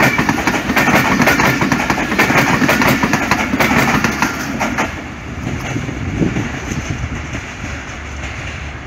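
Pakistan Railways passenger coaches rushing past close by at speed, steel wheels clattering rapidly over the rail joints. About five seconds in the last coach passes and the rumble eases off and fades as the train recedes.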